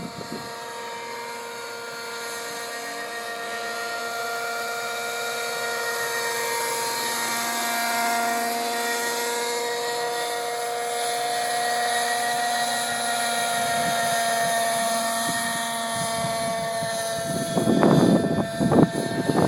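Nitro-engined radio-controlled scale helicopter flying, its engine and rotors giving a steady multi-toned whine that drifts slowly in pitch and swells a little in the middle. Near the end come a couple of seconds of loud, uneven thumps.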